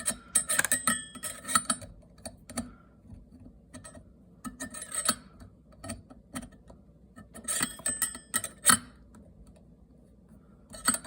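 Small clicks and scrapes of a Torx screwdriver tip against a kitchen faucet handle as it is poked around in the set-screw hole, searching for the screw. The clicks come in four short bunches with pauses between.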